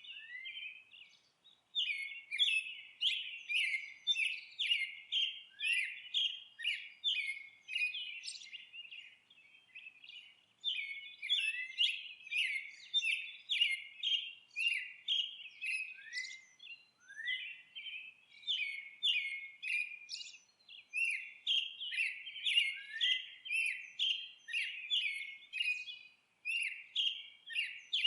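Songbirds chirping and twittering almost without pause, in rapid runs of short high notes, some sweeping up, with a few brief gaps.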